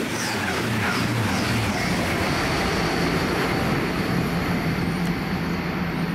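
A train passing at speed: a steady loud rush of wheels and air with a steady high whine.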